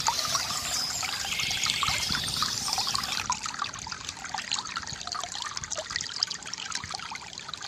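Water trickling and gurgling from a bamboo fountain, a steady run of small splashes.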